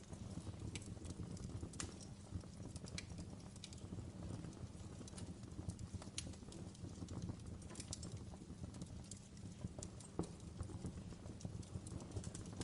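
Wood fire crackling: irregular sharp pops and snaps, several a second, over a steady low rumble of the burning.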